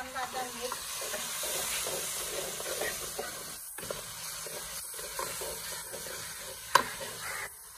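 Onion-and-tomato masala sizzling in a steel pan over a wood fire, stirred with a metal spoon that scrapes against the pan. A single sharp clink near the end.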